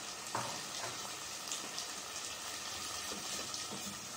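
Chicken frying in ghee in an open pot, a steady sizzle during the bhunai stage, with a light knock soon after the start and a wooden spatula stirring in freshly added yogurt near the end.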